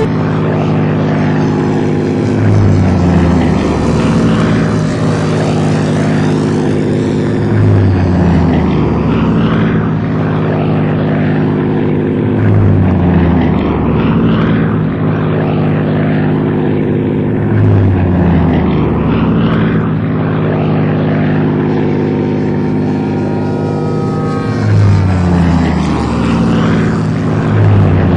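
Engine and propeller of a radio-controlled Spitfire or Hurricane model in flight, running steadily. About every five seconds a low pitch drops and the sound swells briefly, as the model passes.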